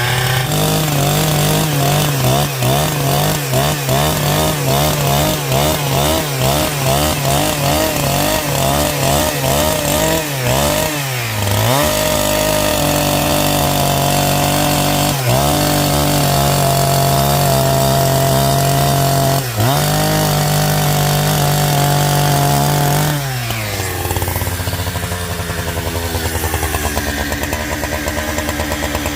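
Chainsaw running at high revs and cutting wood. Its pitch wavers under load for about the first ten seconds and dips briefly a few times. Near the end it drops to a lower speed, then revs up again.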